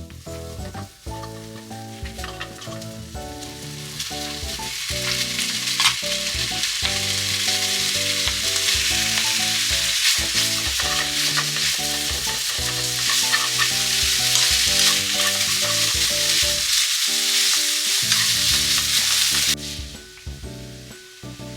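Food sizzling and frying in a pan, building up about four seconds in and cutting off suddenly near the end, over background music.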